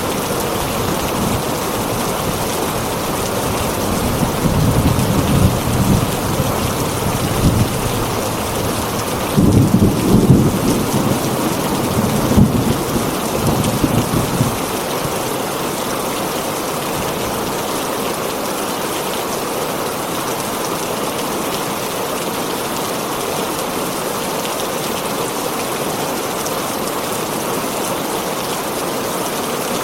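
Heavy rain falling steadily on a tin roof. A low, rolling thunder rumble starts about four seconds in, is loudest near a third of the way through, and dies away about halfway through.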